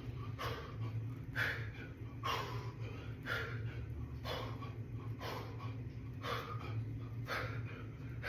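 A man's forceful exhalations, about one a second, in time with push-up reps.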